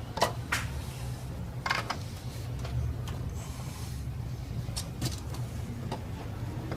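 A few short clicks and clinks of tools and parts handled on an engine's cylinder head, over a steady low hum. The clicks come at about a quarter second, half a second, nearly two seconds and five seconds in.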